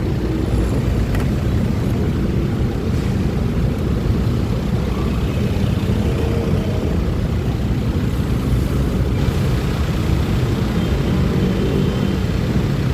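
Steady low rumble of a Honda Click 125i scooter ridden through city traffic: engine and road noise.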